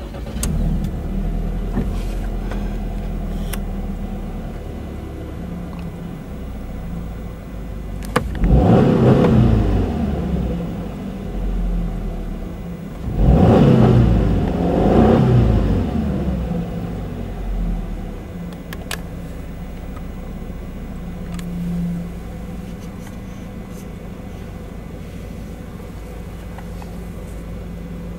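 Subaru Impreza 1.6i-L's 1.6-litre flat-four engine just after start-up, idling high, then revved in neutral in several quick blips that rise and fall back. It then settles to a steady, lower idle.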